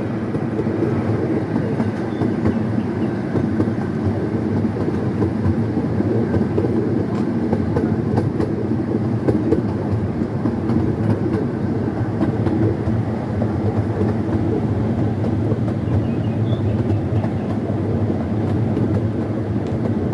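Steady rumble of a small scenic railway train running along its track, heard from on board the carriage.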